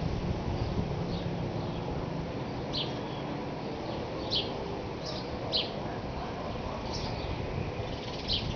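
Birds chirping: several short, high, quick chirps at irregular intervals over a steady low background noise.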